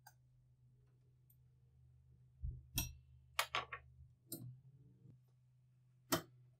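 A handful of sharp clicks and knocks, in a cluster a couple of seconds in and one more near the end, over a steady low hum.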